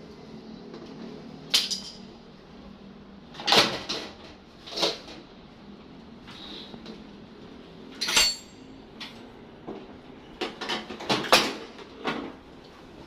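Scattered knocks and clinks of parts and tools being handled while a front-loading washing machine is taken apart for cleaning. There are about a dozen separate hits, one of them ringing briefly just after the midpoint, with a cluster near the end.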